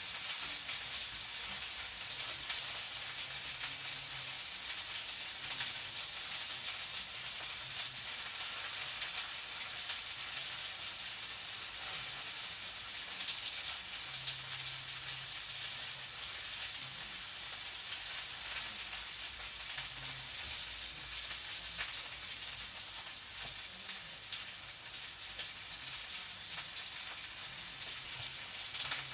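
Food sizzling and crackling in a frying pan, a steady hiss with fine pops throughout.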